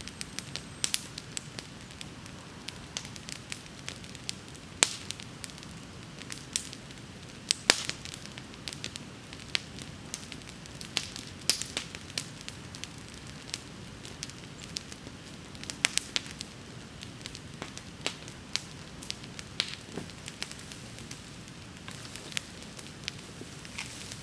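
Wood bonfire crackling: irregular sharp pops and snaps over a steady low rumble of the flames.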